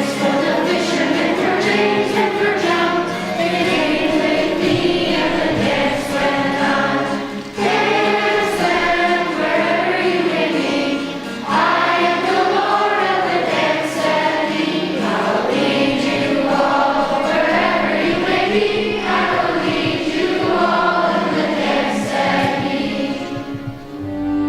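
A choir singing to an instrumental accompaniment; the singing fades out near the end.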